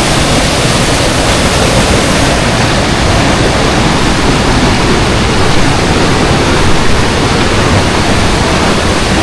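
Waterfall rushing, a loud, steady noise of falling water.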